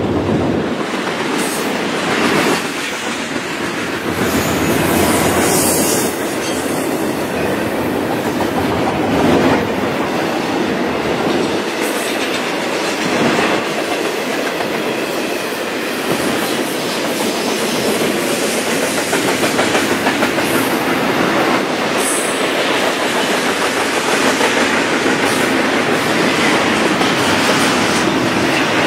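Double-stack intermodal freight train rolling past at close range: a steady rumble and rush of steel wheels on rail, with scattered sharp clicks and knocks as the wheels pass over rail joints.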